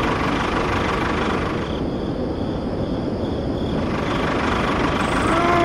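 A small engine running steadily with a dense rumble.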